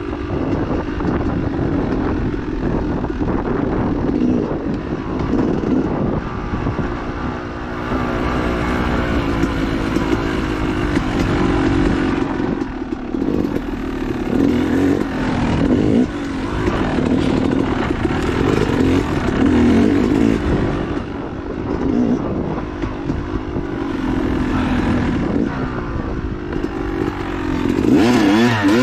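Dirt bike engine running hard on the trail, its revs rising and falling continuously as the rider throttles and shifts, with a quick wavering run of revs near the end.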